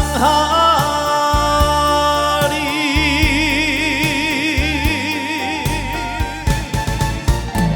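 Male trot singer with live band accompaniment: the melody moves into a long held note sung with wide vibrato, and drum hits come in near the end as the song closes.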